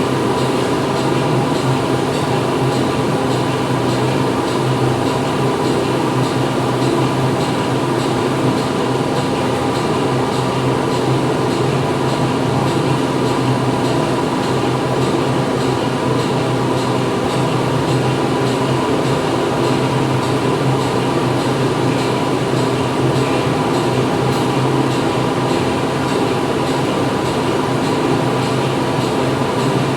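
Factory machinery running inside the plant: a continuous, even hum of machines with several steady tones, unchanging throughout.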